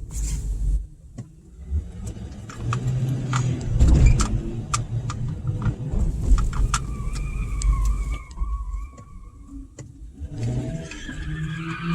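Car engine rumbling and revving, with a swell about four seconds in, scattered sharp clicks and pops, and a wavering high squeal for a few seconds past the middle.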